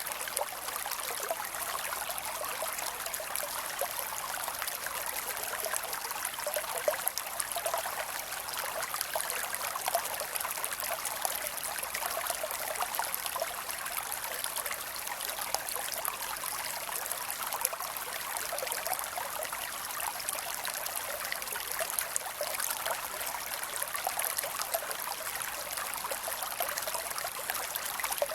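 Creek water running and trickling, a steady even rush with fine splashy detail and little low end.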